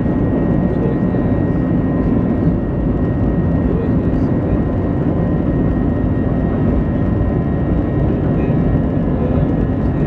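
Airbus A320 cabin noise with the CFM56 engines running steadily: a low rumble with a few constant whining tones on top, not rising in pitch.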